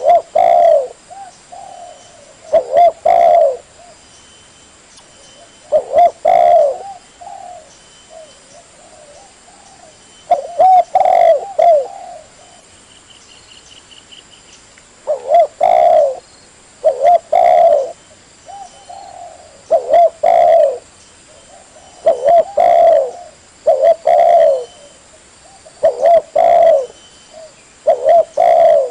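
Spotted dove (tekukur) cooing: loud phrases of a few low coos, repeated every two to three seconds, with fainter coos in the gaps between.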